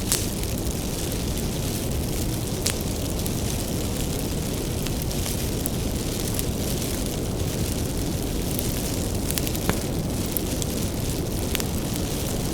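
Bonfire of firewood burning with a steady low roar of flames and scattered sharp crackles and pops from the wood.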